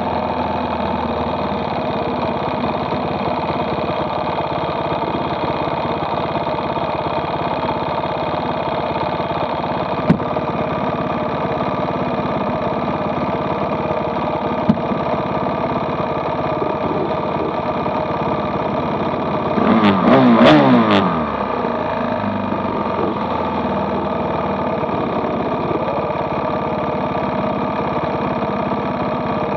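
Dirt bike engine idling steadily. About two-thirds of the way in there is a louder burst of engine sound, about a second long, whose pitch falls. Two sharp clicks come earlier.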